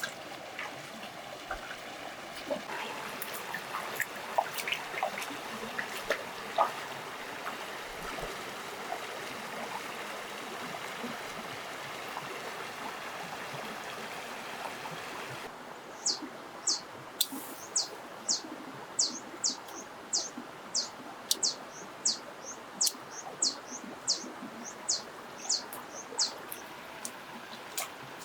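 Water trickling and splashing lightly. About halfway through it gives way abruptly to a bird's sharp, high chirp, repeated steadily one or two times a second.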